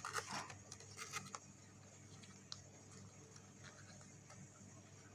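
Sheet of coloured chart paper handled and pressed into a fold, giving a few short faint rustles and crinkles in the first second and a half and one small tick a little later.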